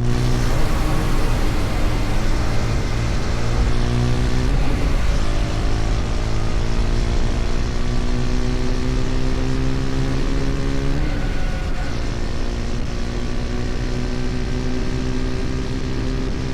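KTM Duke 250's single-cylinder engine pulling the bike along at road speed, its pitch climbing steadily, broken by a brief dip about four and a half seconds in and again about eleven seconds in, as at gear changes. Steady road and wind noise runs under it.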